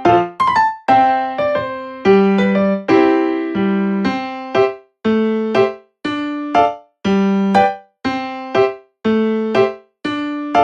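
Background piano music: struck chords and notes in an even, unhurried rhythm, each one fading before the next.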